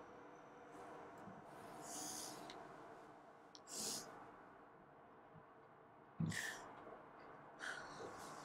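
Quiet room with a few short breathy sighs and bedding rustles as a person stirs in bed and reaches for a phone, the loudest about six seconds in.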